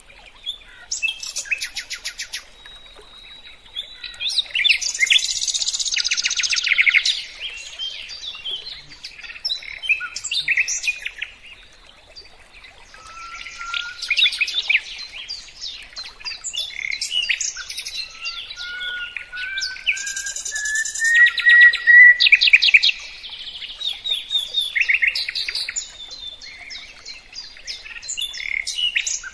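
A songbird singing a long, varied song: fast buzzy trills and chirps alternating with clear whistles, including a slow rising whistle about two-thirds of the way through.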